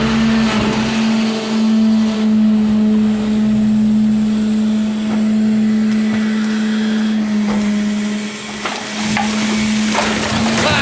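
Garbage truck's engine held at a steady raised speed to drive the hydraulics while it lifts a full dumpster high overhead: a constant, even hum. A few short knocks come near the end.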